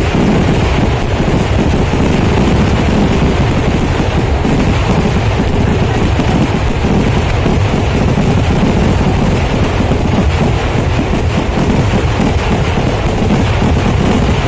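Kerala temple fireworks (vedikettu) finale: a dense barrage of explosions going off so fast that they merge into one continuous loud rumble and crackle.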